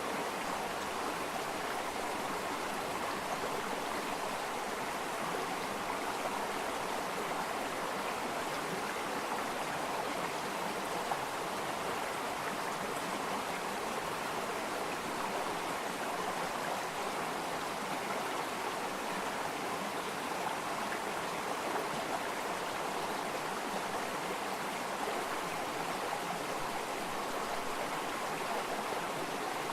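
Running water flowing steadily, an even rushing with no break or change.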